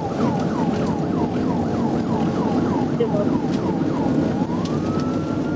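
Police car siren in a fast yelp, quick falling whoops about four a second, changing a little past four seconds in to a long rising tone that levels off. Under it runs the steady rumble of the patrol car's engine and road noise at pursuit speed.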